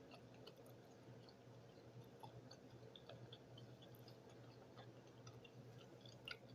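Near silence with faint, scattered small clicks of someone chewing food with the mouth closed.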